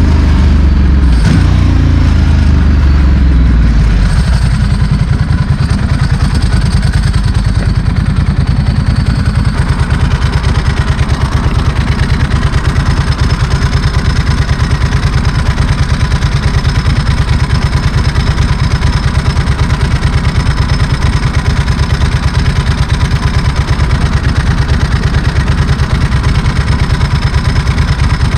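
Ducati Monster S4R's L-twin engine through a straight-piped Mivv exhaust, its note falling as the bike slows for about four seconds, then settling into a steady, evenly pulsing idle.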